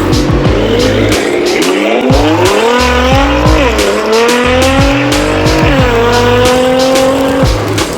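Sports-car engine sound effect revving up through the gears, its pitch climbing and then dropping at each shift, twice, over an electronic drum-and-bass beat.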